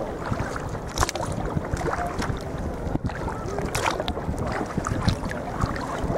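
Sea kayak on the move: water splashing and dripping around the paddle and hull in irregular splashes, over a steady rumble of wind on the microphone.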